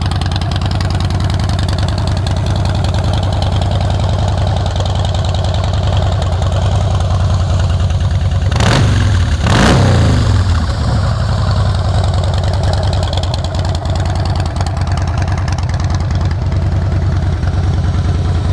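2014 Harley-Davidson Breakout's Twin Cam 103 V-twin idling through Vance & Hines exhausts, with two quick blips of the throttle about halfway through that drop back to idle.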